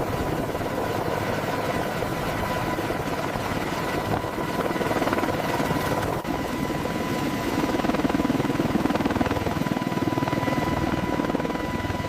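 Heavy helicopter running steadily, its rotor and turbine engines at a constant level, with a steady high whine over the rotor noise.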